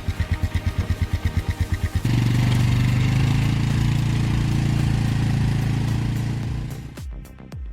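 A small engine chugging slowly with an even beat, then revving up about two seconds in and running steadily at higher speed for about five seconds before dropping away near the end.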